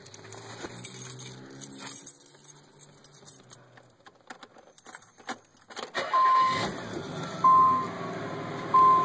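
Keys jangling and clicking at the ignition of a 1993 Nissan 300ZX, then about six seconds in its 3.0-litre V6 starts and runs. A short electronic warning chime repeats about every second and a half once the engine is running.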